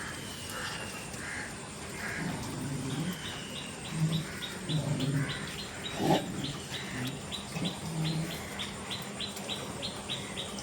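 Birds calling. A rapid run of short, high chirps repeats about three times a second from about three seconds in, over scattered lower calls.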